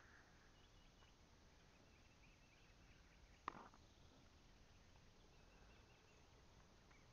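Near silence with faint, short, high bird chirps now and then, and one sharp click about halfway through.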